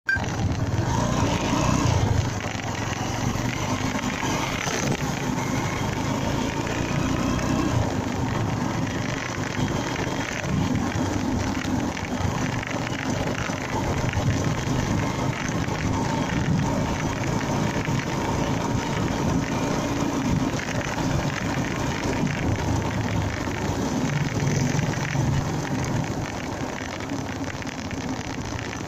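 Honda MegaPro Primus motorcycle engine running on the move, mixed with steady wind and road noise on the microphone.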